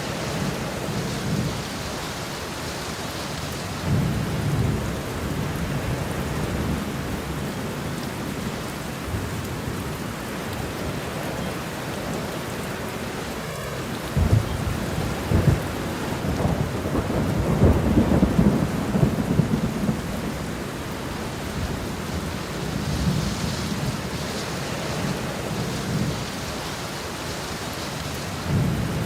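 Steady rain falling with thunder rumbling several times; the longest and loudest roll comes about halfway through and lasts several seconds.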